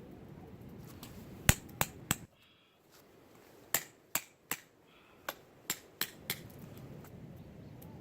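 A series of about ten sharp knocks or snaps: three in quick succession, a short pause, then seven more at uneven spacing.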